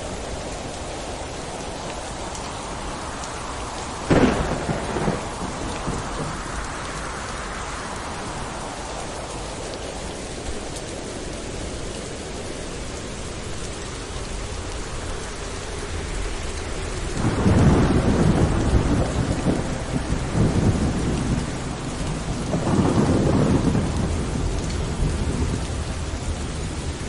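Thunderstorm: steady rain with thunder. A sharp crack of thunder comes about four seconds in, and two long, loud rolling rumbles follow later on.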